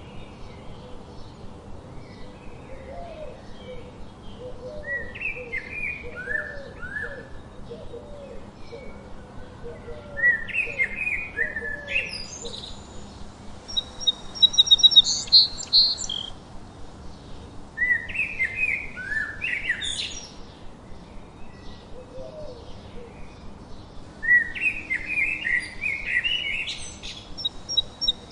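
Several songbirds singing: repeated phrases of quick falling whistled notes, with a loud, fast, high trill about halfway through. A run of low, quickly repeated short notes sits underneath in the first half.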